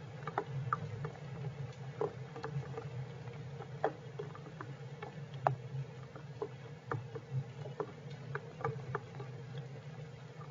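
Heavy rain, with raindrops and drips striking a hard surface as irregular sharp taps, a few a second, over a steady low hum.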